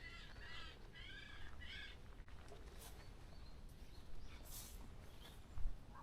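A forest bird calls four times in quick succession in the first two seconds, each note rising and falling in pitch, with a few fainter bird sounds after. A short low thump comes near the end.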